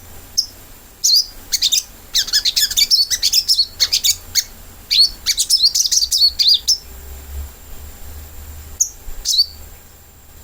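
Sogok ontong (little spiderhunter) calling: fast runs of sharp, high chirps and twitters for several seconds, then two single chirps near the end.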